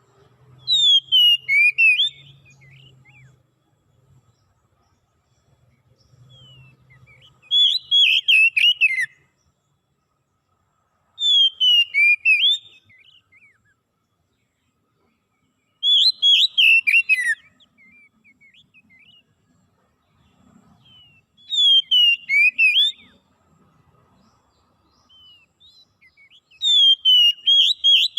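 A songbird repeating a short whistled phrase six times, about every five seconds. Each phrase lasts about a second and a half and is a quick run of notes that slide down in pitch.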